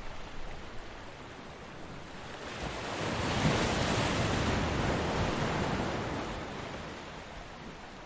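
Ocean wave breaking on a beach: the surf noise swells about two seconds in, is loudest around the middle, then fades away near the end.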